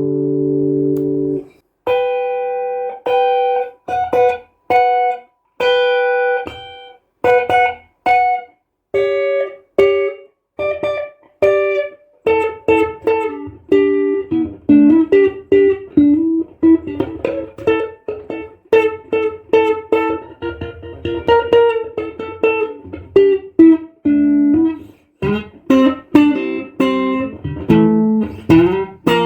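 A 1976 ash-body Stratocaster-style electric guitar played with a clean tone. A held chord rings briefly, then short clipped notes and chords come about a second apart, and from about twelve seconds in a quicker single-note melody runs on, with a short break near the end.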